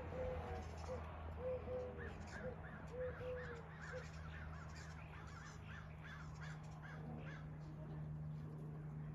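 Birds calling: a string of low calls in the first few seconds, then a quicker run of higher-pitched calls through the middle.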